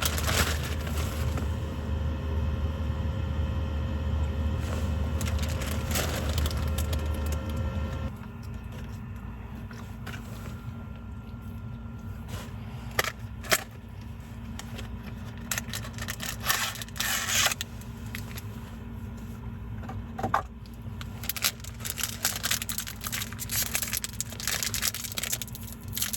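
A steady low hum that cuts off suddenly about eight seconds in, then the scattered crackles and small pops of a wood campfire burning.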